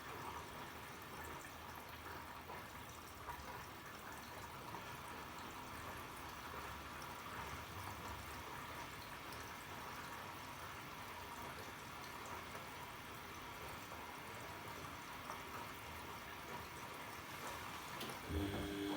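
Arçelik 3650 SJ washing machine filling with water: a steady, faint hiss of water running into the drum, which is about half full and still taking in water.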